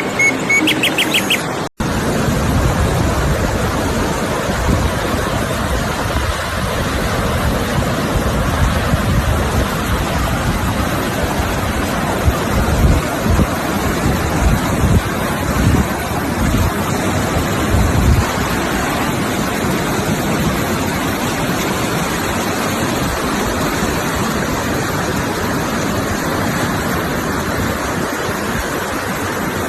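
Rushing water, a steady full hiss with irregular low surges, after a short snatch of music that cuts off about two seconds in.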